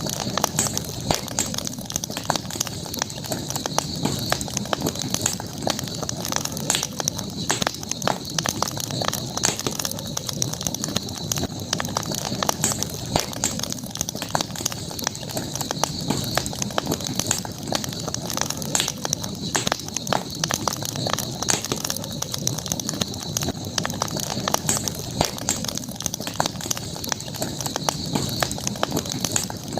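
Campfire crackling, with irregular sharp pops and snaps, over a steady high-pitched background drone.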